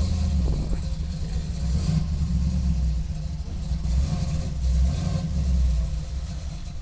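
Low, steady rumble of a car engine running, with a light hiss above it.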